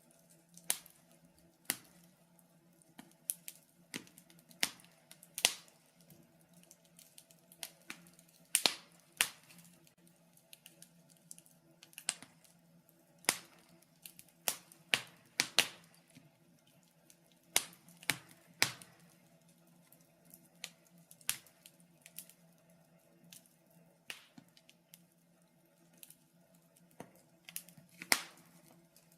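Wood fire in a fireplace crackling, with irregular sharp pops and snaps of varying loudness, over a faint low hum.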